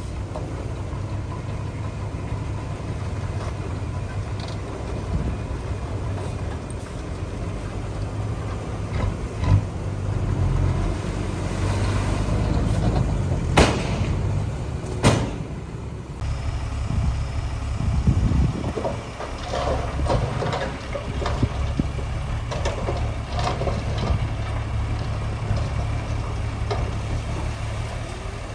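Diesel engine of heavy earthmoving machinery running steadily with a low rumble. Two sharp metallic knocks come a second and a half apart, about halfway through.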